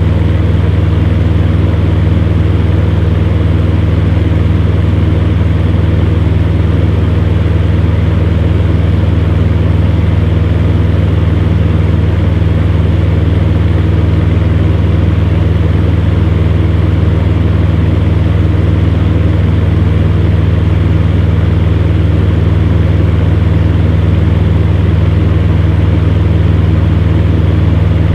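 Fan heater running steadily: a strong, constant low motor hum under an even rush of air from the fan.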